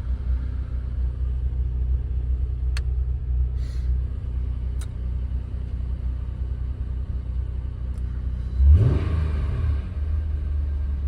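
2006 Acura TL's 3.2-litre V6 idling steadily just after a cold start in near-freezing weather. Near the end the engine pitch rises briefly and falls back within about a second, like a quick blip of the throttle.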